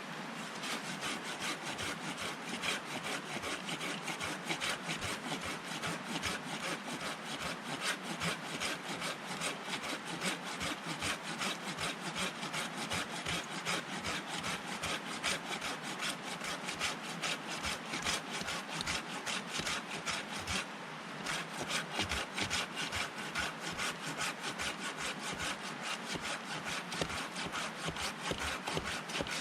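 Hand saw cutting through wood in steady back-and-forth strokes, with a short pause about twenty seconds in.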